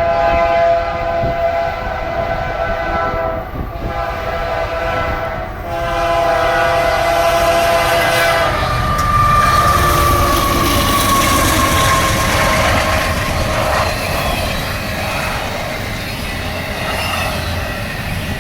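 Nathan multi-chime diesel locomotive air horn sounding two long chord blasts, the second ending about six seconds in. Then the rumble and clatter of passing intermodal freight trains, with a high tone sliding slowly down in pitch for a few seconds.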